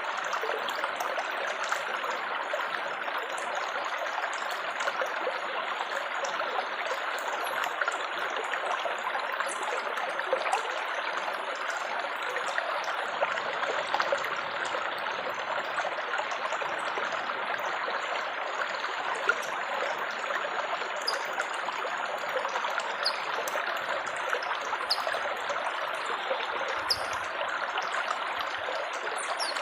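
Running water babbling and splashing steadily, a continuous gentle trickle.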